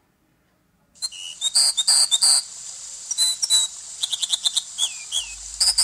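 Dipper singing: a run of high, sharp whistled notes and trills starting about a second in, with a few down-slurred notes near the end, over a steady hiss.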